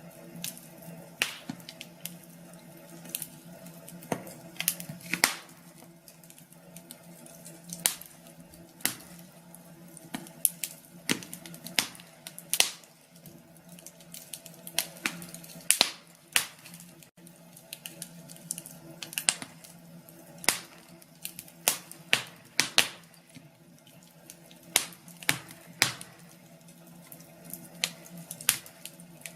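Wood fire in a fireplace crackling, with sharp pops at irregular intervals, several a second at times, over a faint steady hum.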